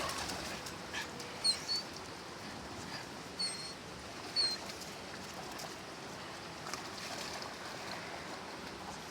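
Steady rush of river water, with a few short high chirps from a small bird in the first half.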